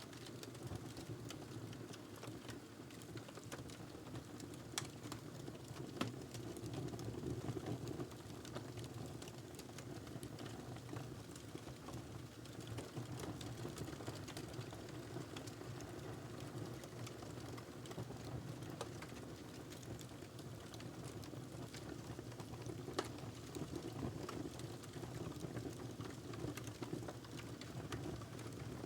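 Fire burning in a fireplace: a steady low rush of flame with constant small crackles and a few sharper pops, the clearest about five and six seconds in and again near twenty-three seconds.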